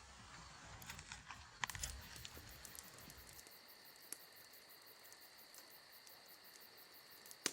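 Near silence: a faint steady high-pitched tone with a few light clicks in the first two seconds.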